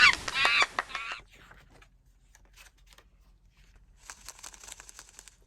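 High-pitched crying: several short wailing sobs, the lost little monkey crying for its mum, which stop about a second in. A soft rustle comes near the end.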